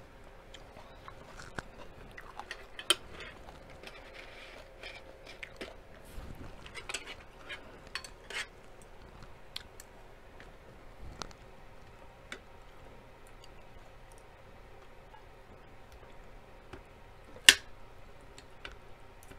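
Close-up chewing of a person eating, with scattered light clicks and scrapes of a fork and spoon against a plate and metal tray. One much louder sharp clink of cutlery comes near the end.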